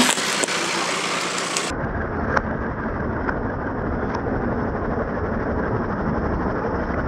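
Tractor engine running steadily, with a few faint sharp ticks over its rumble.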